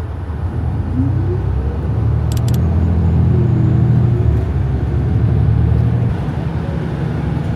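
A vehicle running with a loud, steady low rumble, and a whine that rises in pitch about a second in.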